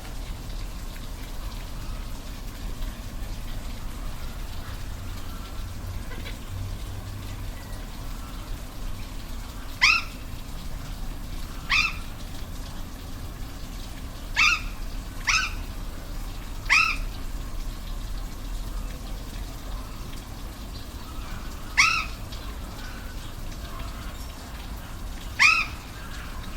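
Waterfall rushing steadily, with seven short animal calls, each dropping in pitch, scattered through the second half.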